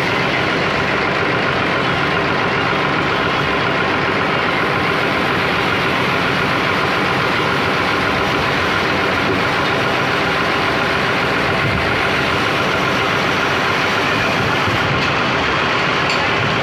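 A large engine running steadily at an even, unchanging speed.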